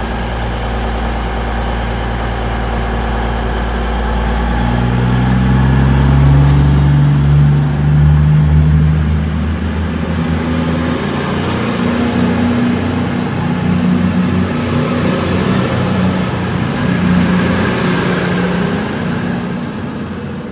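CrossCountry Voyager diesel multiple unit's underfloor engines running and stepping up in pitch as the train pulls away, with a faint high whine late on. Steady hiss of heavy rain throughout.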